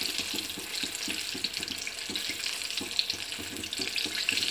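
Batter-coated chicken pieces deep-frying in hot oil over a low flame: steady sizzling and crackling with quick small bubbling pops, and one sharper tick about three seconds in.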